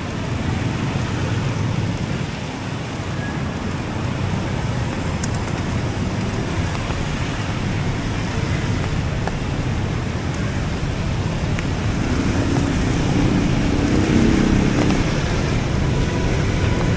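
Steady roar of road traffic along a beachfront road. From about twelve seconds in, a motor vehicle's engine drones more clearly above it.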